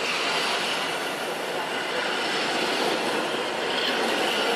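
Two coupled EN57FPS electric multiple units running past, with a steady rush of wheel, bogie and track noise as the cars go by.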